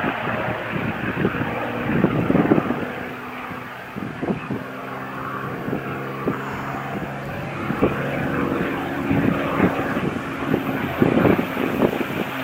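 P-51 Mustang's Merlin V12 engine running in flight: a steady propeller-aircraft engine sound that eases off around four seconds in and builds again in the second half.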